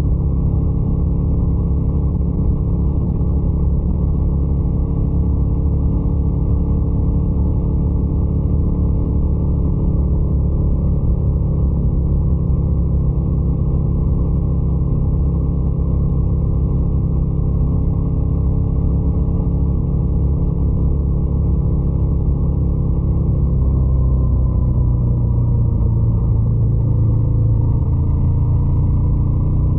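Scrambler 800 motorcycle's twin-cylinder engine running steadily, its note shifting in pitch and getting slightly louder about three-quarters of the way through.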